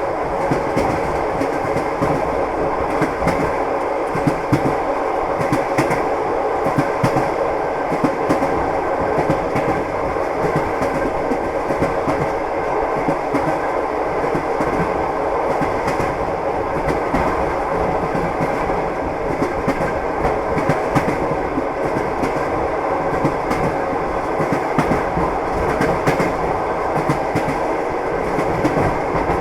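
Train wheels clattering over the rail joints, with the steady running rumble of the moving carriage underneath.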